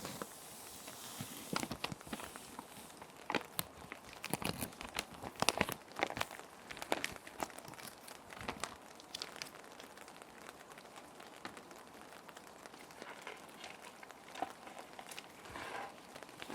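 Plastic sheet protectors crinkling and crackling as paper sheets are handled and slid into them, in bursts that are dense for the first half and sparser later. A steady rain-like hiss runs underneath.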